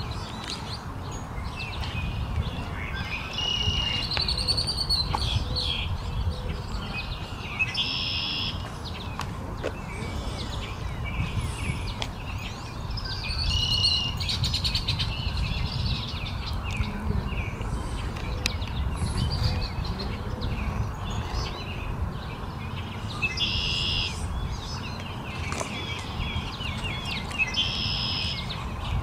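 Small birds chirping and singing in short phrases every few seconds, over a steady low rumble.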